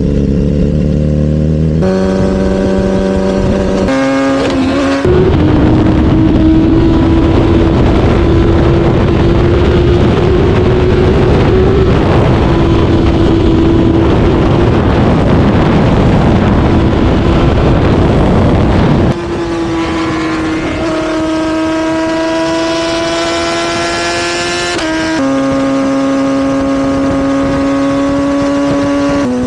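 Sport motorcycle engine heard from on board while riding. Its steady note steps up in pitch a few times in the first five seconds, then is buried under loud wind rush for about fourteen seconds. The engine note comes back clear and steady for the last ten seconds, changing pitch once near the end.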